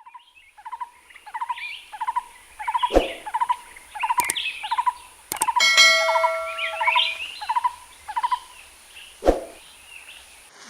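Birds calling: one repeats a short note about twice a second while others chirp higher, with a few sharp clicks and a brief ringing tone about six seconds in.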